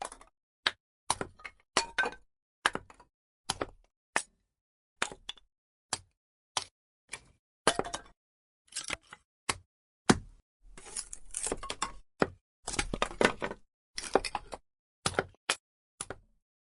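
Burning firewood crackling: irregular sharp pops a few times a second, with two denser runs of crackling about eleven and thirteen seconds in.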